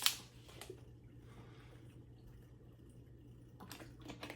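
Faint wet mouth clicks and smacks of someone eating and drinking: a couple at the start and a cluster near the end, over a low steady hum.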